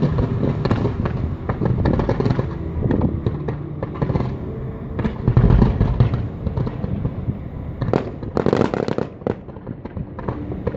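Aerial fireworks going off: a dense run of bangs and crackling over a continuous rumble. The heaviest bursts come about halfway through and again near the end.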